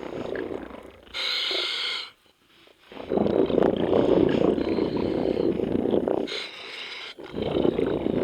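Scuba diver breathing through a regulator: a short hissing inhale about a second in, then a long bubbling exhale, and the cycle repeats near the end.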